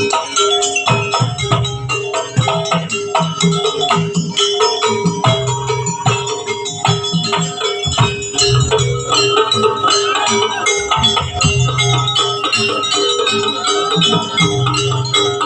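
Live Javanese jaranan accompaniment music: drums, gongs and struck metal percussion playing a dense, continuous rhythm over a held tone.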